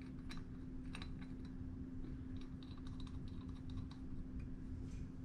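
Scattered light clicks and taps of small carburettor parts being handled as a new float is fitted into the carburettor body, over a faint steady hum.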